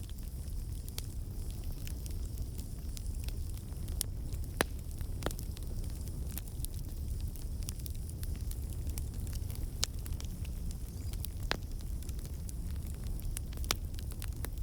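Campfire burning: a steady low rumble of the flames with irregular sharp crackles and pops from the burning wood, a few louder pops among them.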